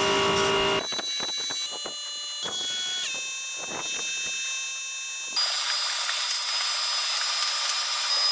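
A small electric cleaning machine's motor running with a steady high whine over a hiss. The sound jumps abruptly in pitch and loudness several times, first about a second in.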